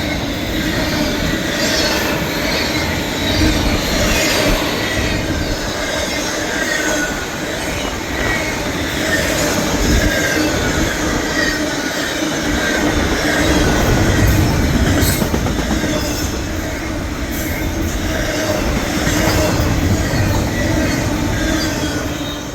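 Westbound intermodal freight train rolling past. Its steel wheels squeal in shifting high tones over the steady rumble and clatter of the cars on the rails.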